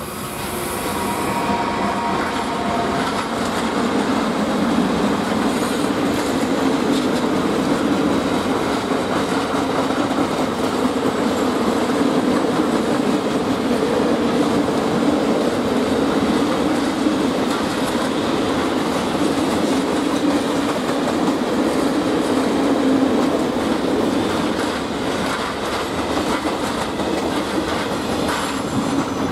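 Train passing close by on the rails: a steady rumble of wheels with clickety-clack over the rail joints, building up over the first few seconds and easing off slightly near the end.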